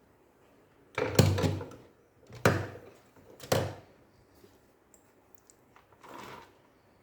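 Handling knocks as a laptop and a USB mouse are being set up: three short knocks about a second apart, then a softer one near the end.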